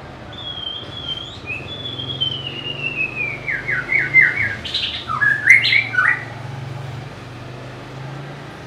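White-rumped shama singing: a long thin whistle that slowly falls in pitch, breaking into a run of quick short notes, then a few louder, harsher notes, ending about six seconds in. A steady low hum runs underneath.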